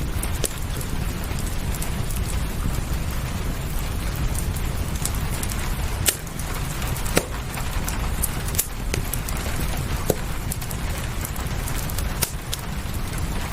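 Rain ambience and a crackling wood fire: a steady hiss of rain over a low rumble, with sharp pops and snaps from the fire every second or two.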